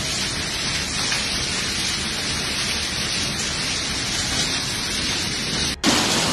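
Heavy rain and hail pouring down in a storm: a dense, steady hiss. Near the end it breaks off for an instant at a cut, then resumes with a few sharper hits.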